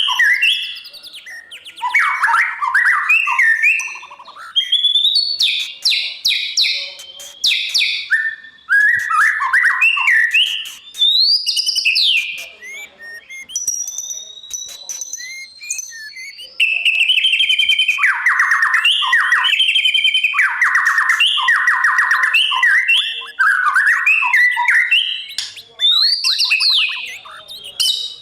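White-rumped shama singing a varied song of loud clear whistles, slurred glides and fast runs of rapidly repeated notes, delivered in phrases with short pauses between them.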